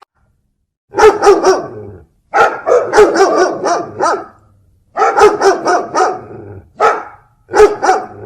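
Dog barking in quick runs of several barks each, about five runs separated by short silences.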